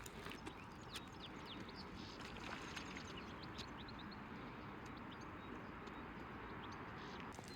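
Quiet outdoor ambience: a steady low hiss with many short, faint bird chirps scattered through it and a few light ticks.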